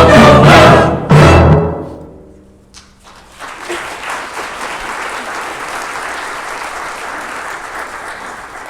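Choir and orchestra ending a piece on a loud final chord, with a last accented hit about a second in, which rings away. From about three seconds in, the audience applauds steadily.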